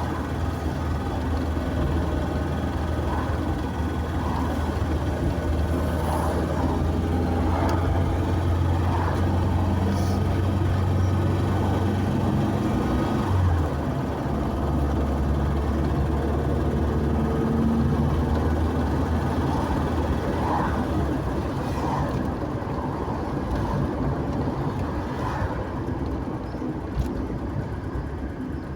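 Car driving on the road: a steady low engine hum under tyre and road noise, the engine note stepping down slightly about 13 seconds in.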